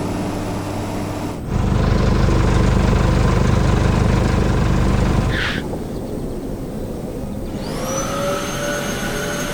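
Cartoon sound effects of a machine motor running with a steady hum, cutting in louder about a second and a half in, then a brief whoosh about halfway through, and near the end rising tones that level off.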